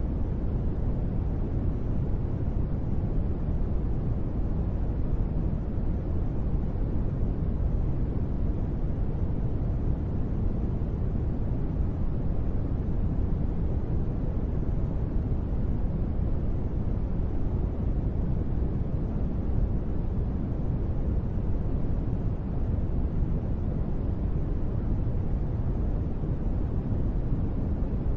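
Steady, deep rushing noise with no separate drops or other events: a sleep white-noise track billed as gentle rain.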